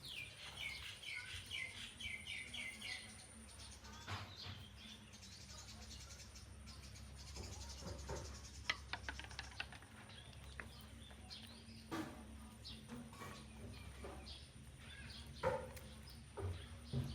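A quick run of high chirps, about four a second, for the first three seconds, followed by scattered sharp clicks and knocks and a few softer chirps.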